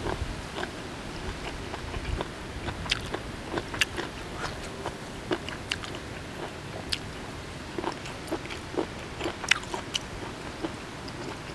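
Close-miked chewing of crunchy boiled apple snail meat: irregular crisp crunches and small clicks, a few every second.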